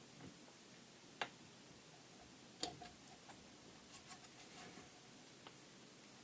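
Faint clicks and taps of plastic pressure-washer pump parts being handled and fitted: a sharp single click about a second in, a small cluster near the middle, then a few fainter ticks.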